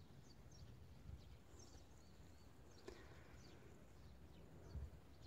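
Near silence: faint outdoor ambience, with distant bird chirps scattered throughout over a faint low rumble.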